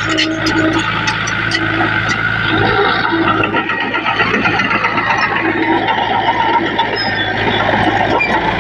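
Heavy diesel earthmoving machinery running steadily under load, with a few short metallic clanks in the first second.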